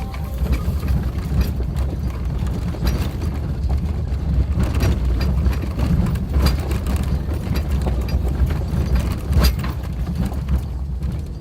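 Suzuki Jimny driving over a rough unpaved forest road: a steady low rumble of engine and tyres, broken by frequent irregular knocks and clatters from stones and the bouncing chassis.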